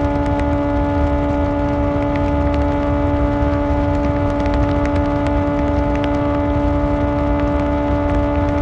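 Kawasaki ZX-4R inline-four motorcycle engine with an Akrapovic exhaust, running at a steady, fairly high, unchanging pitch, with a low rumble underneath.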